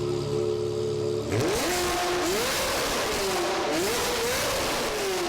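Ferrari 360's V8 through a loud custom exhaust: steady for about the first second, then it suddenly gets harsher and revs up and down again and again.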